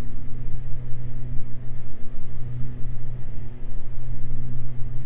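Steady drone of the Beechcraft G58 Baron's two six-cylinder Continental piston engines and propellers, heard inside the cockpit at approach power on final with gear and full flaps down. A strong low hum runs under it with a couple of fainter steady tones above.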